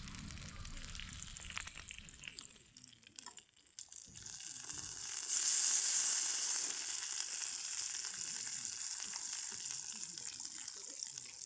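A campfire crackling and knocking for about three seconds, then after a short drop a steady sizzling hiss of food frying on the grill, which swells a couple of seconds later and keeps going.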